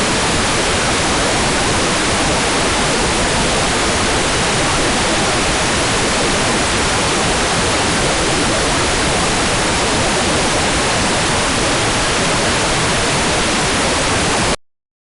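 Hair dryer running, a steady, even rushing noise with no change in pitch, which cuts off suddenly just before the end.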